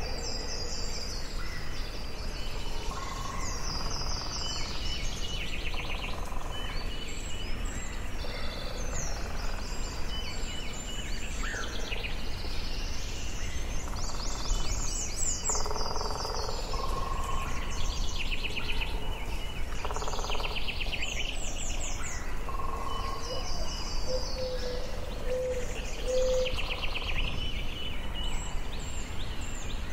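Forest ambience: several songbirds singing overlapping phrases of quick trills and chirps, with a few lower calls, over a steady low background rumble.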